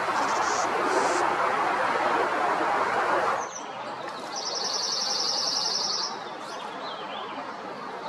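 A steady broad rushing noise cuts off abruptly a few seconds in. A songbird then gives one fast, high trill of rapidly repeated notes lasting under two seconds, followed by a few faint short notes.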